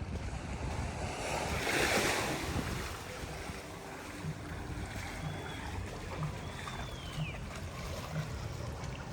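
Sea surf on a beach, with one wave breaking and washing in about two seconds in, and wind rumbling on the microphone throughout. A faint high chirp sounds briefly near the middle.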